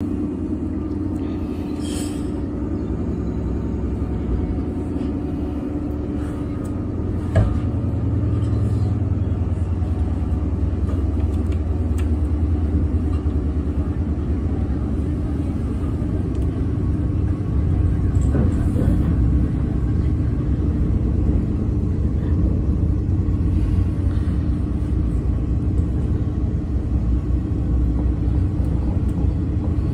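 Interior running sound of a JR 115-series electric train pulling out and under way: a steady low rumble of motors and wheels on the rails. A single sharp knock comes about seven seconds in, after which the rumble is a little louder.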